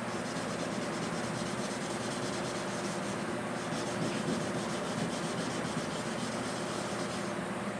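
Steady sanding of a truck's hood, sandpaper rubbing continuously over the panel.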